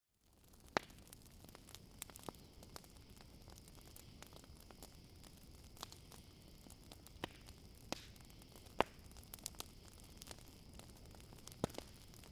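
Campfire crackling, with scattered sharp pops of the burning wood over a low steady hiss, and a steady high cricket trill behind it. The sound fades in at the start.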